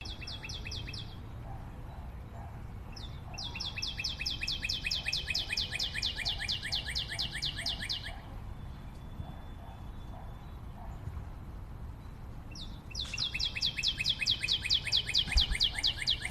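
A bird calling in fast trills of evenly repeated high notes, about five a second, in three runs: a short one at the start, a long one from about three to eight seconds, and another starting near thirteen seconds. A faint low rumble sits underneath.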